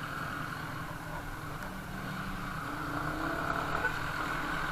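A vehicle running steadily on the road, its engine hum and road noise growing slightly louder.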